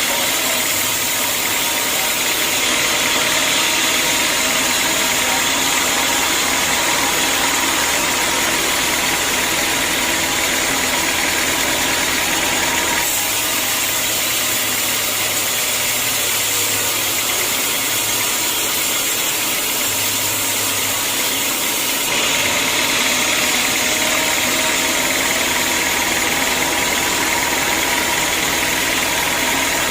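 Sawmill machinery running steadily: a loud, even mechanical drone with a hiss over it, changing abruptly twice.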